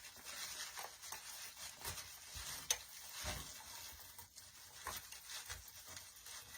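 Faint rustling and crinkling as artificial pine branches and ornament balls on a teardrop swag are handled and rearranged, with scattered light clicks and one sharper click about two and a half seconds in.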